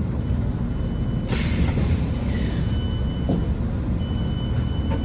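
Low steady rumble of a Chiltern Railways Class 165 diesel unit idling. Two short hisses come a little over a second and about two seconds in. A high steady tone sounds twice in the second half, each time for about a second.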